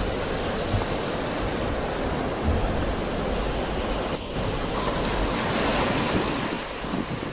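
Sea waves washing on a shore, a steady rushing surf that swells to a louder hiss a little past halfway, with a few brief low rumbles of wind buffeting the microphone.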